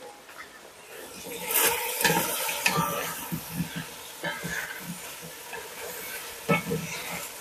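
Potato chunks and baby carrots frying in oil in a metal pot, sizzling, stirred with two wooden spatulas. From about a second and a half in the spatulas scrape and knock irregularly against the pot.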